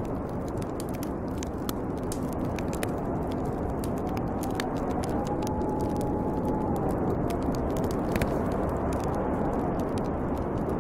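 Snowstorm wind blowing steadily, with a thin whistle that wavers up and down, over a bonfire crackling with scattered small pops.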